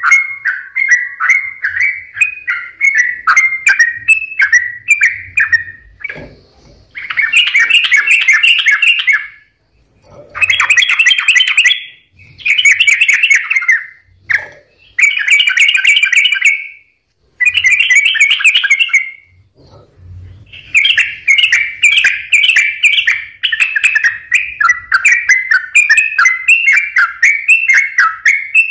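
Yellow-vented bulbul (trucukan) singing loudly and persistently: a fast run of bubbly chirps, then a string of dense, chattering song phrases about two seconds each with short gaps between them, then another long unbroken run of rapid chirps.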